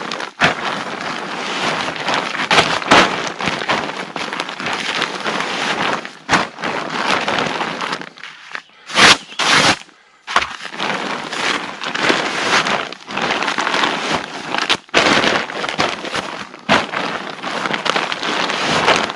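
Loud rustling and crinkling of camping gear being handled and packed close to the microphone, in uneven spells with short pauses and a few sharp knocks.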